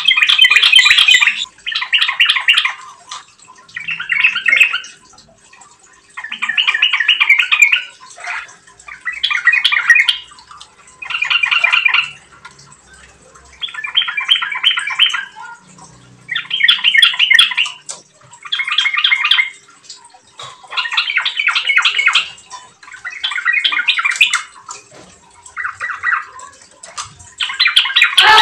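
Yellow-vented bulbul (trucukan) singing, in full and rapid song: bursts of quick chattering notes, each about a second long, repeated roughly every two seconds.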